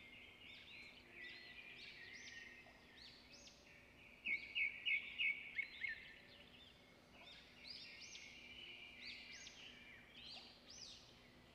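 Faint birdsong: small birds chirping continuously in many short, high, curved calls, with a louder run of about six quick chirps about four seconds in.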